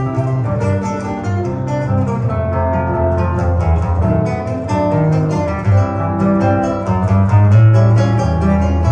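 Acoustic guitar playing a fast run of picked notes over a steady bass line.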